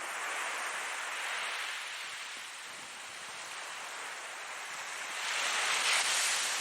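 Ocean waves washing in, as a steady hiss that swells twice, the second surge near the end the louder.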